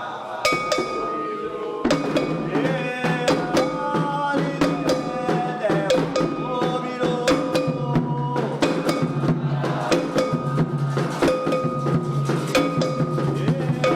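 Candomblé ritual music: hand drums and a metal bell beating out a steady, driving rhythm, with voices singing along.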